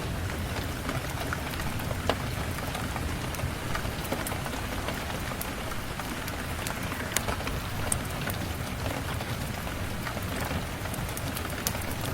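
Steady rain falling, with a low rumble underneath and a few sharp pops or crackles about two, seven and eight seconds in.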